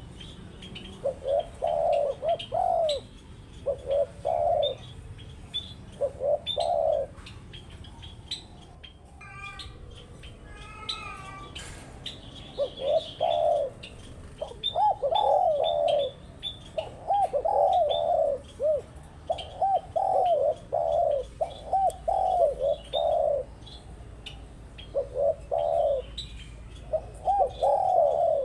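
Spotted doves cooing over and over in short repeated phrases, falling silent for a few seconds about a third of the way through, with the quick high chirps of smaller birds throughout.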